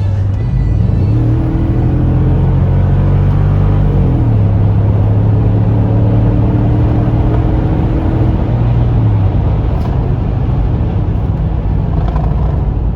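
Mercedes ML55 AMG's 5.4-litre V8 running under way, a steady low drone whose pitch rises and then drops about four seconds in, as with a gear change.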